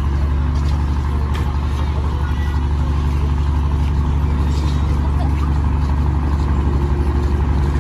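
Heavy construction machine's engine running steadily, a deep, even drone with no change in speed.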